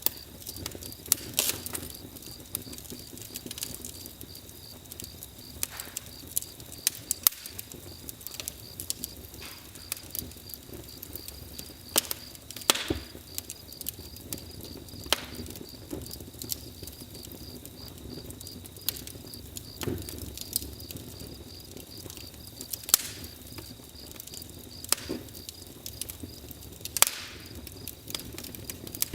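Campfire crackling: irregular sharp pops and snaps of burning wood, a few louder cracks among many small ones, over a low steady rush. A thin steady high tone runs underneath.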